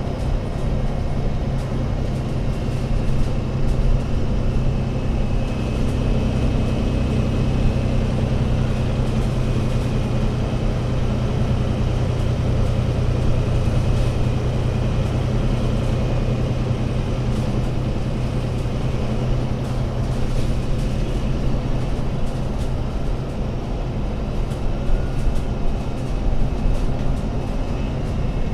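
Engine of an Alexander Dennis Enviro500 MMC Euro 6 double-decker bus running steadily, a low drone with a faint high whine above it.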